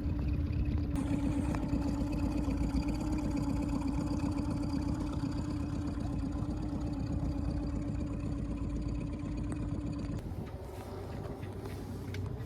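Small boat's engine running steadily at low speed while the boat is brought into the dock, then cutting off about ten seconds in.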